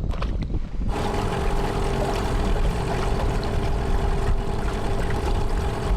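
Boat's outboard motor running at a steady speed, starting abruptly about a second in with an even engine note and low rumble.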